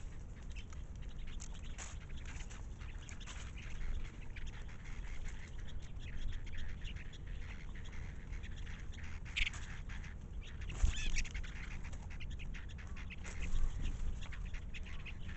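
Short bird calls and scattered small clicks and rustles over a steady low rumble.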